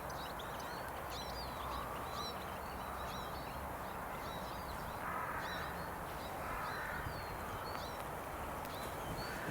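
Small birds chirping, with many short high calls repeating throughout, over a steady rushing background noise.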